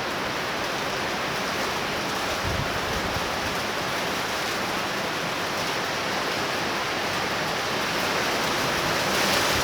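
Heavy rain falling steadily in a torrential downpour: a dense, even hiss.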